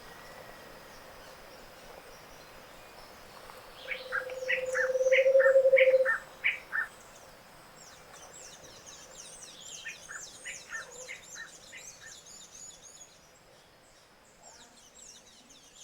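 Tropical montane forest dawn chorus. About four seconds in, a low, rapid, hollow trill swells in loudness for two seconds and stops, the song of a Scaled Antpitta, while another bird sings a string of short whistled notes over it. After that, thin high trills and chips from other small birds.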